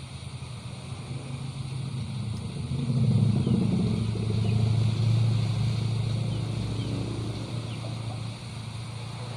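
A motor vehicle's engine passing by, growing louder to a peak a few seconds in and then fading away. Faint short high chirps sound over it.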